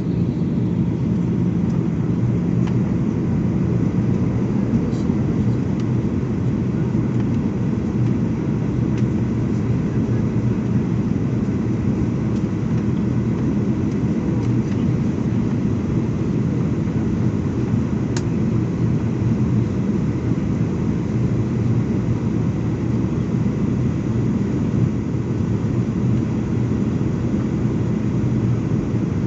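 Steady low rumble of a passenger jet's engines and rushing air, as heard inside the cabin in flight.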